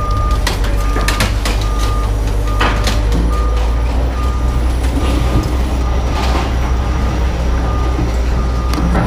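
An alarm beeping on one high note, a little more than once a second, over a loud, steady low rumble, with scattered sharp knocks.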